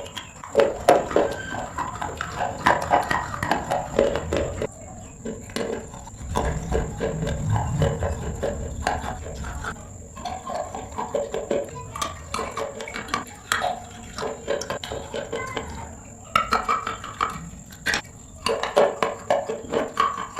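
Mouth sounds of someone chewing and crunching, with many sharp crackling clicks, over a faint steady high-pitched whine.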